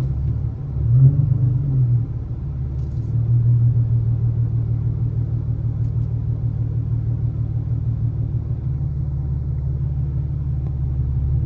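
Infiniti Q50's 3.7-litre V6 with a loud aftermarket exhaust and test pipes, droning steadily at low revs, heard from inside the cabin. A short swell in revs comes about a second in.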